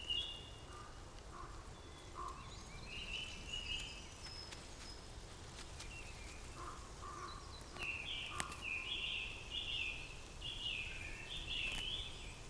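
Outdoor wildlife sound of birds calling: scattered short calls, then a run of about half a dozen short repeated calls in the last third, over a faint steady background hiss.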